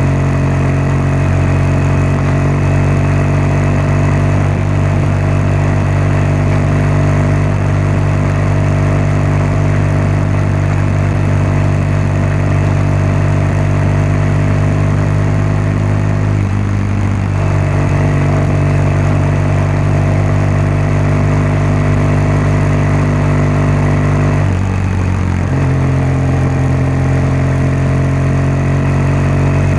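BMW R1200GS boxer-twin engine and exhaust running steadily. The note briefly breaks up twice, about halfway through and again near the end, then carries on.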